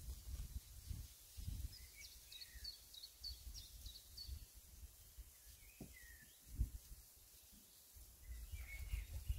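Wild birds singing, with a quick run of short high chirps a couple of seconds in and a few lower calls, over a faint, uneven low rumble. One dull thump about six and a half seconds in.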